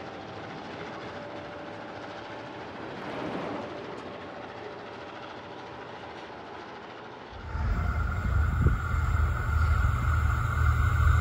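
Freight wagons loaded with rails rolling away along the track, a steady moderate rumble of wheels on rail. About seven seconds in, a sudden change to a diesel locomotive approaching, its engine a loud low rumble that grows louder.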